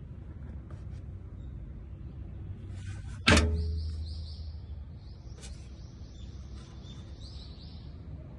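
A single loud slam about three seconds in that rings off over about a second, followed by a few seconds of rapid high bird chirping.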